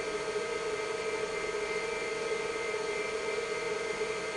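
IBM 5160 PC XT running: its cooling fan and spinning MFM hard drive give a steady whir with several steady tones in it.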